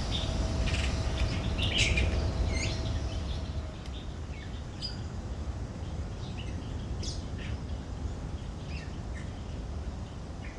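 Birds chirping: short, scattered calls over a low background rumble that eases about four seconds in.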